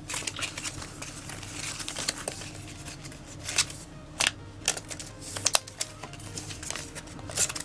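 Foil booster pack wrapper crinkling and trading cards being handled, with irregular sharp snaps and clicks as the pack is torn and the cards slid out, over the steady low hum of a desk fan.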